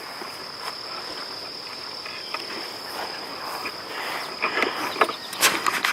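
Steady high-pitched insect chorus droning without a break. Rustling and sharp clicks come over it in the last two seconds.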